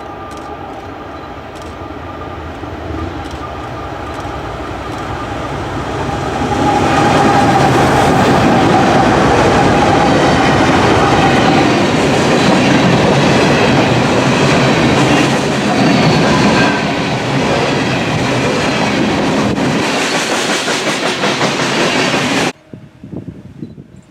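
Train rolling past, the wheels clattering over the rails, growing louder over the first several seconds and staying loud until the sound cuts off suddenly near the end.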